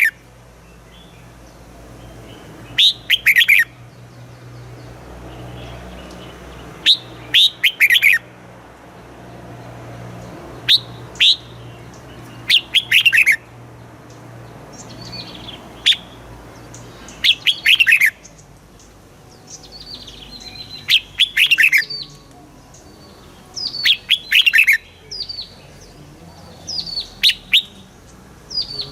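Red-whiskered bulbul singing: short phrases of quick, falling whistled notes, repeated about every three seconds.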